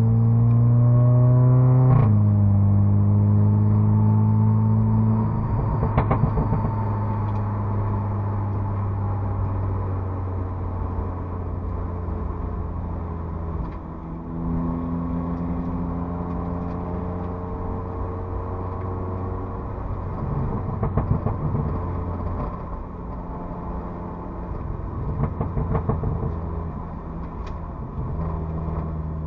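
Audi S3 8V's turbocharged four-cylinder engine heard from inside the cabin, pulling up through the revs with a rising note, changing gear about two seconds in, then running on at a steadier speed with further shifts in pitch near the middle and the end. A few brief crackles come through in the middle and later part.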